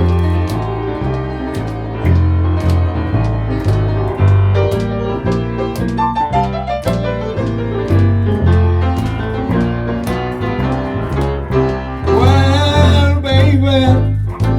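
Jump blues band playing live: a piano solo over a walking bass line and a steady beat. A man's voice comes in singing near the end.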